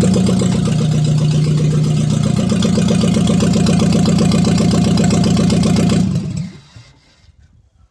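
1974 Renault 4's 852 cc engine idling steadily with no muffler fitted, so the bare exhaust pulses are heard. About six seconds in it stops and the sound dies away within a second.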